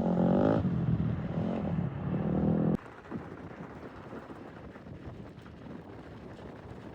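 Dirt bike engine running, then cutting off abruptly about three seconds in, leaving faint wind noise on the microphone.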